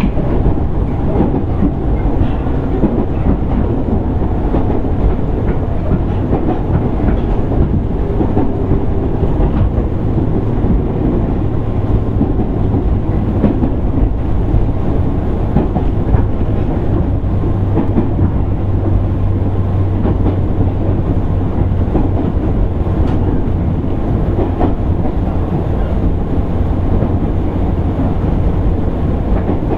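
Running noise inside a JR East 205 series 600 subseries electric motor car (MoHa 204-604) under way: steady wheel-on-rail rumble and traction noise. A low hum grows stronger about ten seconds in.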